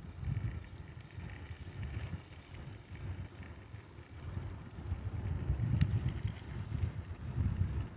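Wind buffeting the microphone during a bicycle ride, gusting unevenly, with a single short click about six seconds in.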